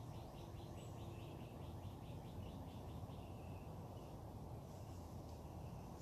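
A songbird singing a fast series of repeated short notes, about five a second, that stops about three seconds in, over a low steady rumble of outdoor background noise.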